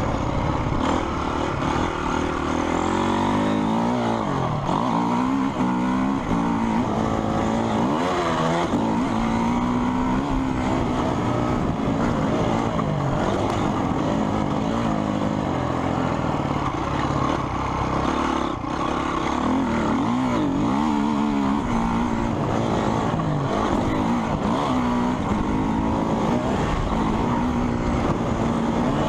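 Motocross motorcycle engines revving up and down, their pitch rising and falling repeatedly, with more than one bike heard at once.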